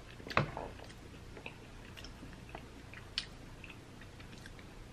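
Quiet chewing of a Ferrero Rocher chocolate, with scattered small crunches from the crisp wafer and hazelnut; a sharper crunch comes about half a second in and another about three seconds in.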